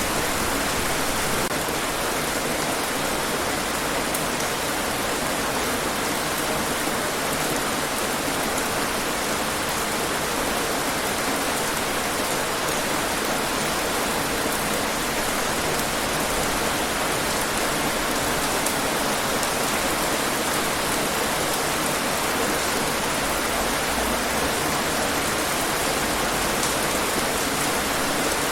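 Steady rain falling on hard surfaces, a dense even hiss with fine drop patter.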